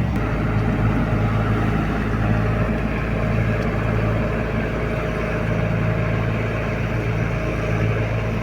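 Heavy diesel engine running steadily at a constant low speed, with no revving or change in pitch.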